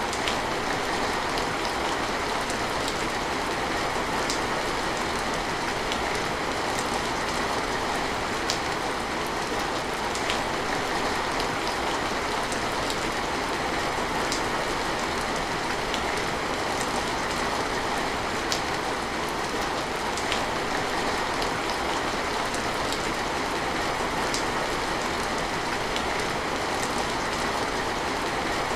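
Steady rain falling, an even hiss with scattered sharp drips tapping through it.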